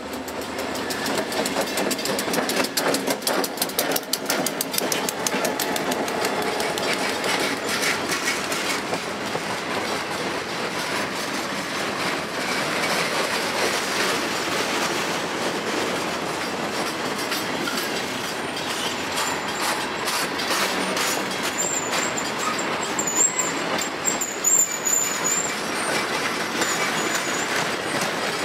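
Freight train rolling past: steady rumble and rhythmic clickety-clack of the wheels over rail joints as the cars go by. A thin, wavering high-pitched wheel squeal comes in about two-thirds of the way through and lasts a few seconds.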